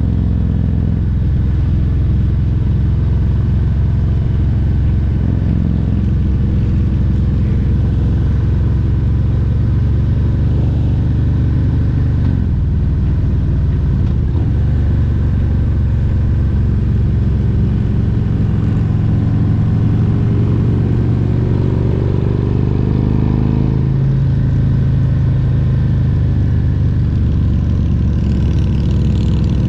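Harley-Davidson Milwaukee-Eight 114 V-twin running steadily under way on the road. Its pitch dips about twelve seconds in and climbs again in the last third as the bike speeds up.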